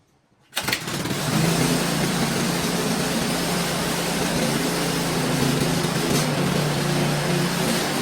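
Small petrol snowblower engine running steadily. It comes in suddenly about half a second in, after a brief moment of near silence.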